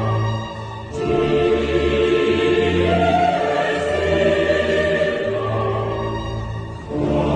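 Choral music with sustained sung chords over low orchestral notes, the harmony changing about a second in and again near the end.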